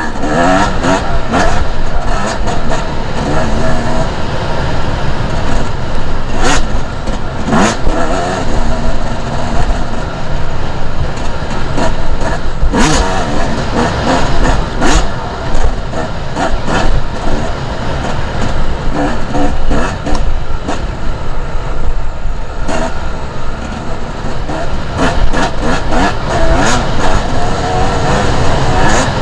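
Two-stroke enduro dirt bike engine revving up and down while riding off-road, with a heavy low rumble of wind and terrain and scattered sharp knocks.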